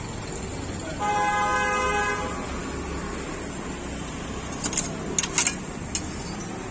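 A vehicle horn sounds once, a single steady held tone for about a second, over constant street background noise. A few short, sharp clicks follow near the end.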